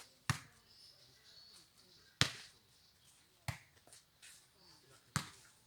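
Jokgu ball being kicked and bouncing on the court during a rally: four sharp thuds spaced one to two seconds apart, the loudest about two seconds in.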